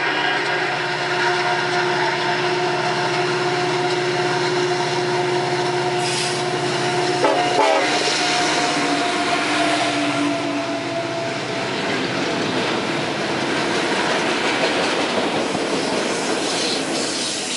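Diesel freight locomotive's horn sounding one long held blast as the locomotives approach and pass about eight seconds in, the horn's pitch dropping as they go by, over the engines' running. After the horn stops the autorack freight cars roll past with steady wheel and rail noise and clatter.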